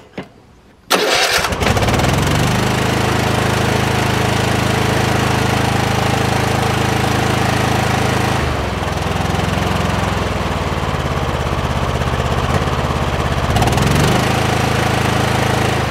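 Kohler 7000 series 24 hp V-twin mower engine starting about a second in, then running on only one cylinder with an occasional popping noise: the other cylinder is getting no spark.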